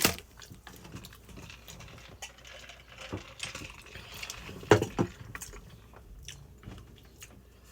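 A person chewing and biting food close to the microphone, with scattered small wet clicks and a sharper knock about four and a half seconds in.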